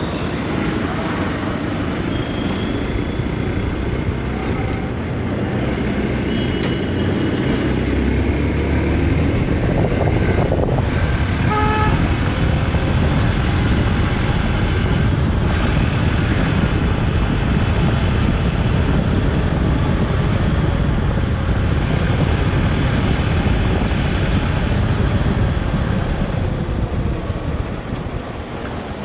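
Motorcycle riding through city traffic: engine running under wind and road noise, with a vehicle horn sounding briefly about twelve seconds in.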